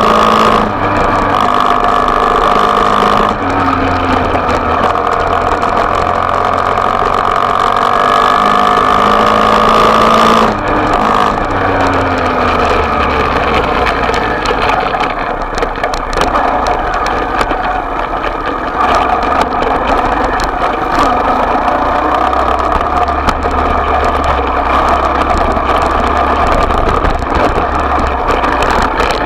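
Small dirt-bike engine running with a steady high note for about ten seconds, then dropping to lower revs and running on.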